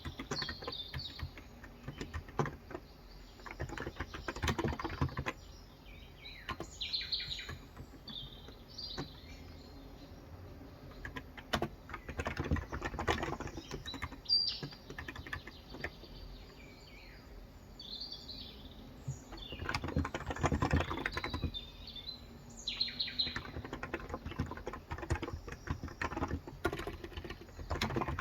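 Typing on a Cox Endeavour electrostatic-capacitive (non-contact) tenkeyless keyboard with light 35 g switches, in bursts of rapid keystrokes with short pauses between. Birds chirp in the background throughout.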